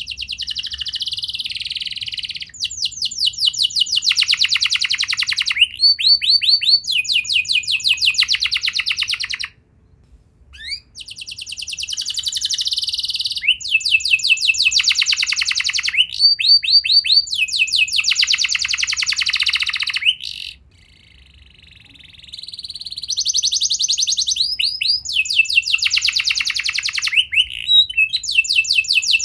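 Domestic canary singing long, loud song bouts built of rapid trills, each run of repeated notes switching to a new pattern every second or two. The song breaks off briefly twice, about ten and twenty-one seconds in.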